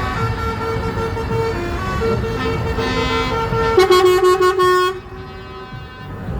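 Truck horns sounding in a parade: a steady held horn tone, then a louder air horn blast about four seconds in that cuts off abruptly about a second later, over the low rumble of truck engines.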